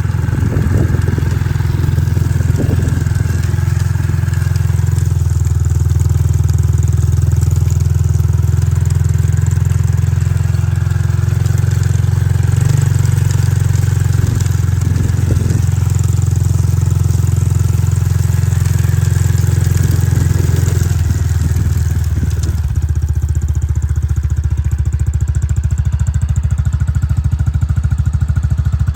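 Motorcycle engine running steadily at a constant speed. The note shifts and drops slightly near the end.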